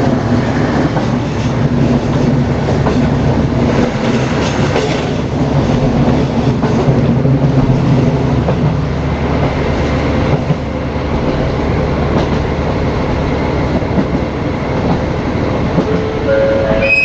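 JR Hokkaido KiHa 40 diesel railcar running along the line, heard from inside with the windows open: a steady engine hum under the clatter of the wheels on the rails.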